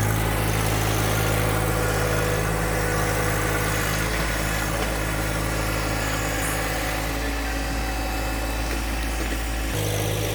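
Tractor engine running steadily, with a slight change in its note near the end.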